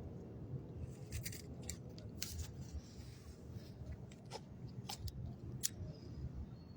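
Quiet pause with low background room noise and a handful of faint, irregular sharp clicks.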